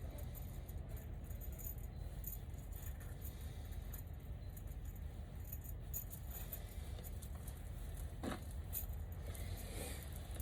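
Faint light rattling and clicking over a steady low rumble.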